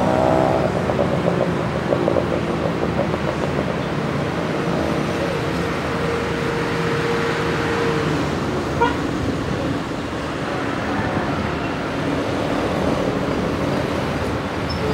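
Diesel locomotive shunting a rake of passenger coaches, running steadily at low speed, with a single steady tone held for about four seconds in the middle.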